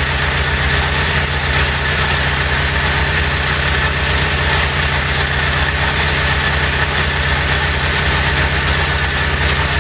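A 1977 Harley-Davidson XLCR Cafe Racer's air-cooled Ironhead V-twin idling steadily on its first fire-up.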